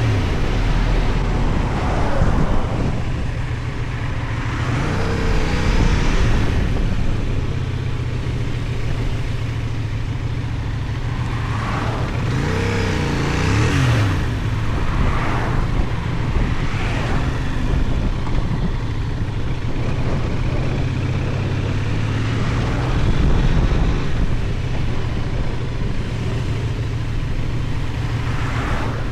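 Benelli Tornado 550's 554 cc parallel-twin engine running while the motorcycle is ridden, with wind and road noise; the engine pitch rises and falls a few times.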